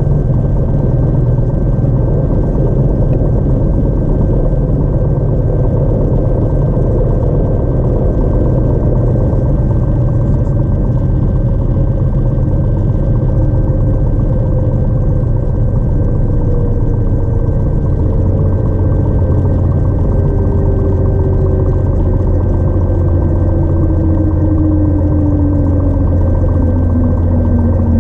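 Cessna 182 engine and propeller droning steadily, with a thin steady high whine over it and a tone that slowly falls in pitch through the second half.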